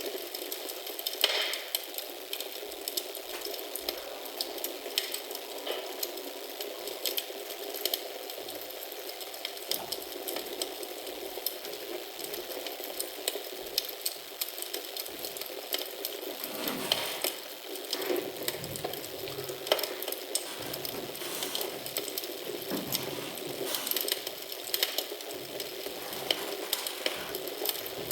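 Wood fire crackling in a fireplace, with frequent small crackles and occasional louder pops.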